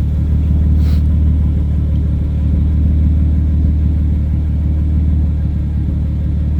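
Honda J-series V6 idling steadily through a straight 3-inch DIY exhaust: an even, deep exhaust rumble with no revving.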